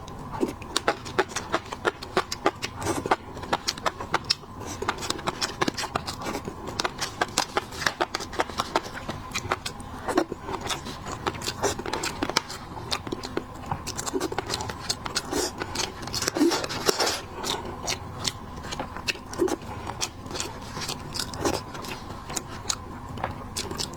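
Close-miked eating of shellfish: rapid, irregular clicks, cracks and scrapes of shells being handled and chewed.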